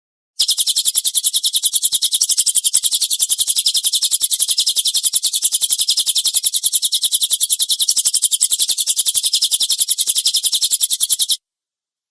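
A cililin bird's coarse rapid-fire 'tembakan' call: high, dry notes repeated about ten a second without a break for about eleven seconds, starting and stopping abruptly.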